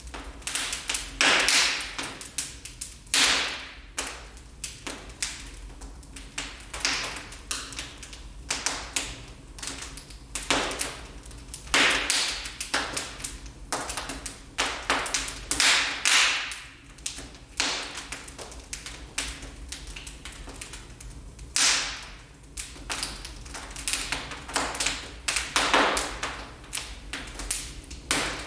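Wood fire burning in a fireplace, crackling and popping irregularly over a low steady hiss.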